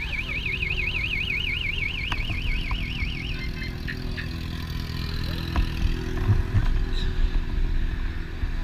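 A vehicle alarm sounding a rapid warbling tone that stops about three and a half seconds in, over the steady low rumble of a motorcycle engine idling. The engine rumble swells briefly around six seconds in.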